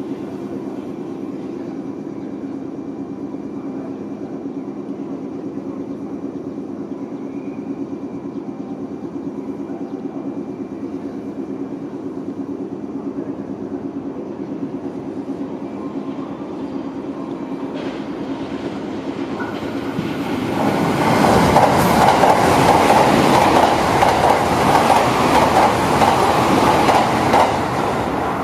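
Steady electric-train hum for about twenty seconds, then an electric train passes at speed. From about 20 s the louder rush of wheels on rail and the clatter of rail joints runs for roughly seven seconds and drops off sharply near the end.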